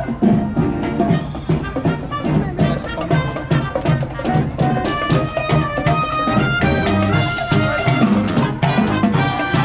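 A live band playing, with a steady beat and a melody line over it.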